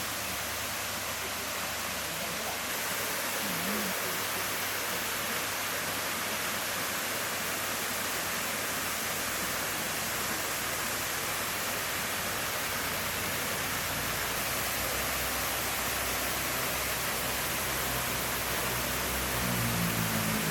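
Waterfall water falling and splashing in a steady, even rush. A low hum comes in near the end.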